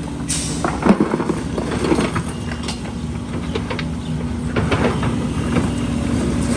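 Heavy diesel construction machinery running steadily, with irregular clanks and scrapes of concrete rubble being handled.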